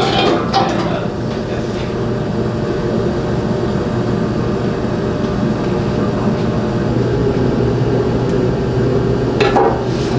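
A steady mechanical drone with a constant low hum, running evenly throughout.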